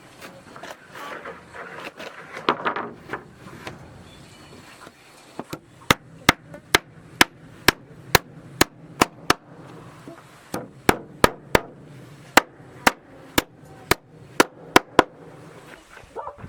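Hammer striking wooden floor planks in a steady run of sharp blows, about two a second, with a short pause about ten seconds in. Before the hammering there is rustling as the wood is handled.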